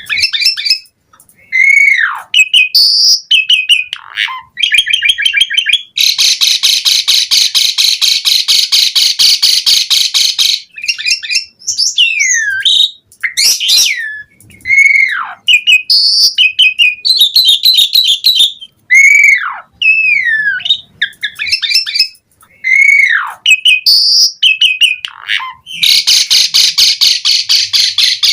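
Javan pied starling (jalak suren) singing loudly in an energetic, varied song. It mixes sharp down-slurred whistles with quick chattering notes, and two long harsh rattling passages, one from about six seconds in and one near the end.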